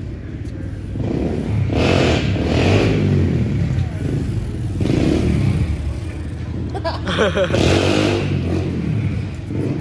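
Motorcycle engines running and revving in surges, with people's voices shouting over them.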